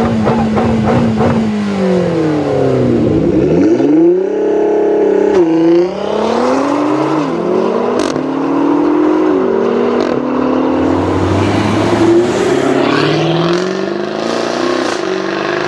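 Sports car engine accelerating hard, its pitch climbing and then dropping sharply at each of several quick upshifts.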